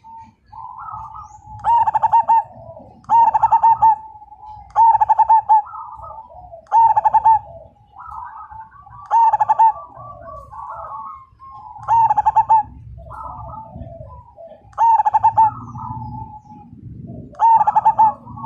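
Zebra dove (perkutut) cooing: eight loud, trilled song phrases, repeated every two seconds or so, with quieter coos between them.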